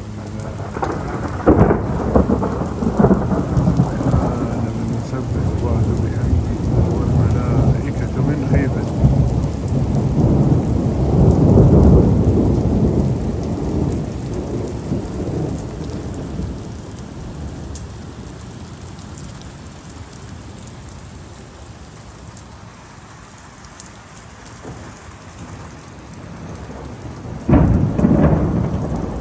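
Thunderstorm: steady rain falling throughout, with thunder. A crack and rolling rumble begin about a second and a half in, build to a long peak near the middle and fade away. Another close, sharp thunderclap comes near the end.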